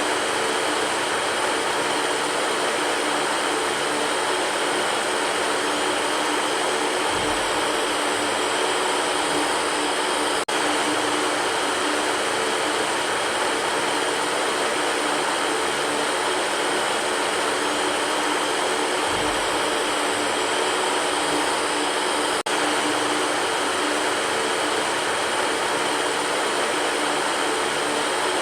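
Electric fan running steadily: an even rushing whoosh of air with a faint hum. A soft low bump and a brief drop in level recur about every twelve seconds.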